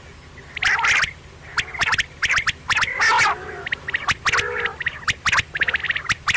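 Quail calling: quick clusters of short, sharp, rasping notes repeated over and over, with a few lower warbling notes in between.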